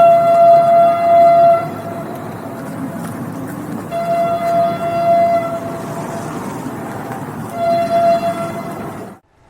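Train horn sounding three blasts at one steady pitch: two long ones and a short one, over the rumble of the running train. The sound cuts off suddenly near the end.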